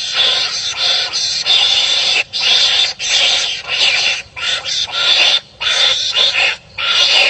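Animals calling at each other in harsh, rasping bouts, each about a second long with short breaks between, over and over.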